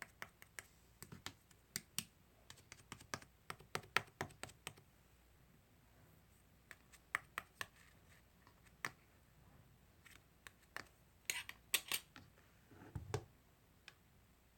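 Slime being pressed and poked by hand, giving quick irregular clicks and small pops in clusters, with short pauses between.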